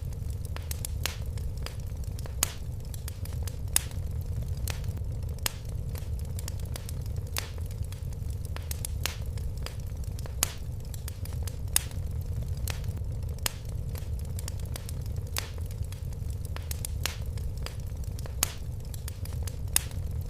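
Wood fire burning in a fireplace: a steady low rumble of the flames with frequent irregular crackles and occasional louder pops.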